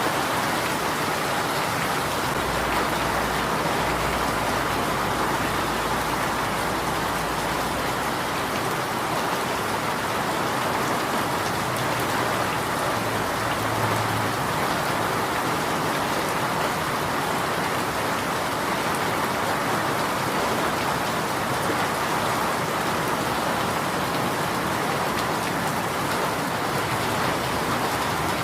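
Steady rain falling, an even, unbroken patter of drops on surfaces.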